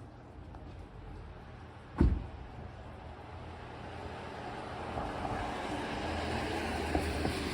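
Ford 6.7 L Power Stroke V8 turbodiesel cold-starting at about 37 °F: a sharp burst as it fires about two seconds in, then a cold idle that grows steadily louder.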